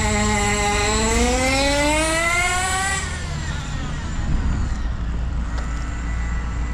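Nitro RC car's Hot Bodies .18 two-stroke glow engine revving, its pitch rising for about three seconds. The engine note then cuts off sharply, leaving a steady low rumble.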